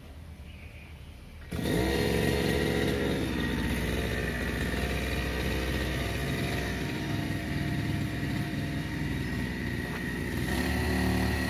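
Brush cutter's small engine running at high speed, coming in suddenly about a second and a half in after a quieter hum.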